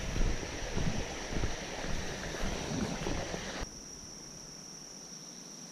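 Wind buffeting the microphone over a steady, high-pitched drone of summer insects. A little under four seconds in the wind noise stops abruptly, leaving only the insect drone.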